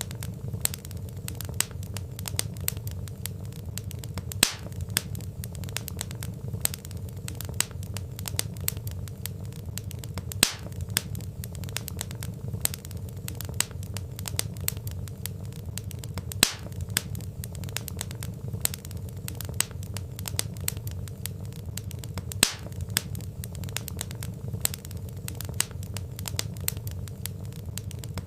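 Wood fire crackling in a fireplace: a dense run of small snapping pops from burning logs, with a louder pop about every six seconds, over a steady low rumble.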